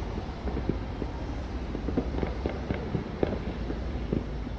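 Distant fireworks going off: many small, irregular pops and thuds over a low, steady rumble.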